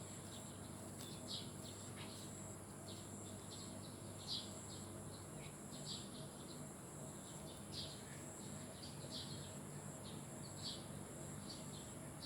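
Birds chirping outdoors: short high chirps repeating every second or so, some louder than others, over a steady high-pitched drone.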